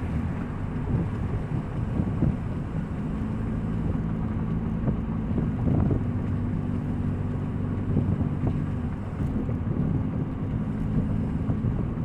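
A 2000 Nissan Altima's four-cylinder engine running with a steady low drone from a leaking exhaust.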